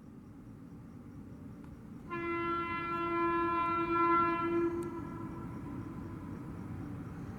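Indian Railways locomotive horn sounding one long blast of nearly three seconds, starting about two seconds in, over the rising rumble of an express train approaching at speed.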